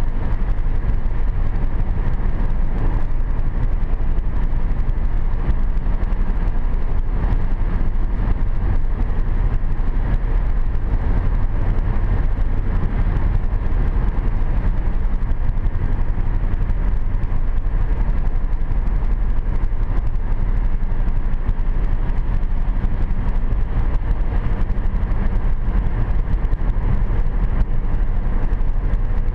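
Steady road and engine noise inside the cabin of a 2010 Hyundai Sonata V6 cruising at highway speed, tyres running on wet pavement.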